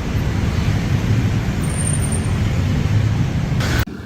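Road traffic noise on a busy city street: a loud, steady rumble of engines and tyres. It drops off suddenly near the end.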